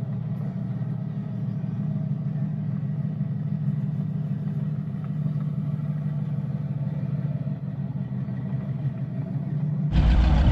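Car engine idling with a steady low rumble. Near the end a much louder, harsher sound cuts in suddenly.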